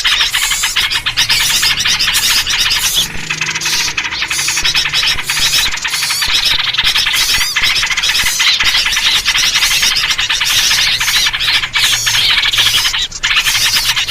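A dense chorus of small songbirds, yellow-vented bulbuls among them, chattering and chirping rapidly and without a break: a noisy mixed-bird lure recording meant to draw wild birds in.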